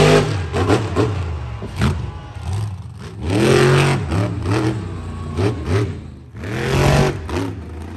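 Monster truck engine revving hard in repeated surges: three big rises and falls in pitch a few seconds apart, with shorter throttle blips between them.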